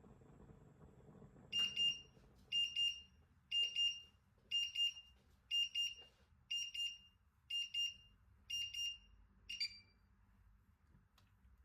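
Electronic kitchen timer going off: a high-pitched quick run of beeps repeated about once a second, nine times, the last cut short as it is switched off.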